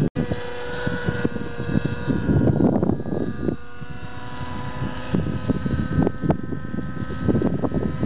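Engine of a radio-controlled model aircraft running at a steady pitch, over an irregular low rumble.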